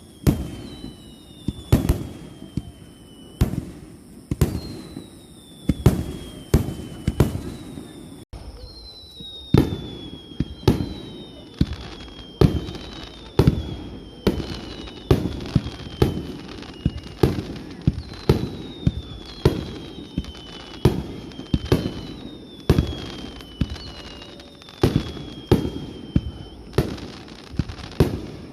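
Fireworks display: a rapid string of sharp bangs, more than one a second. Between them come many high whistles, each falling in pitch over about a second.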